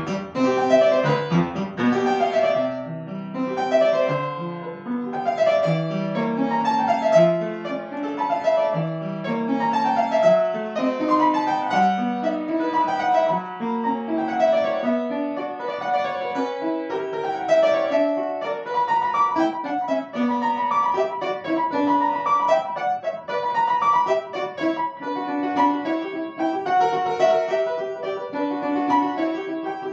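Solo piano playing a classical piece: an unbroken run of quick notes.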